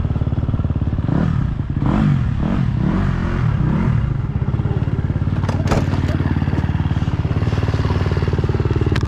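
Motocross bike engine running close by with a fast, even beat, revved up and down a few times between about one and four seconds in, then settling back to a steady run; it drops away near the end.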